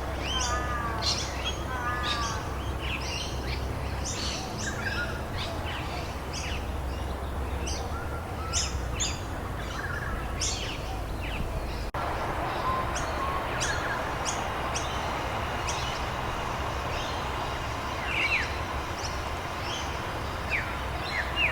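Several wild birds singing, with many short chirps and whistles throughout, over a steady background hiss. About halfway through, the background changes abruptly.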